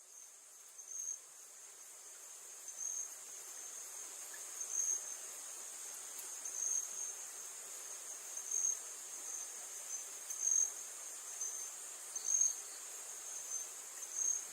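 Chorus of insects in the forest: a steady, high-pitched trill with a louder pulse about every two seconds.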